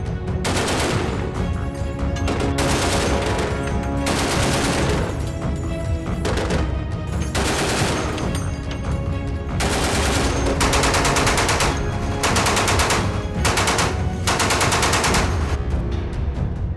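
Mark 38 25mm chain gun firing in a series of short rapid-fire bursts, about a second each, with music underneath.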